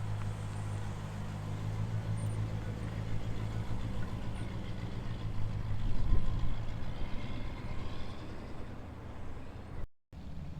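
Muscle car exhaust, a low steady engine note from cars driving out, growing louder to a peak about six seconds in and then easing off. The sound cuts out abruptly for a moment near the end.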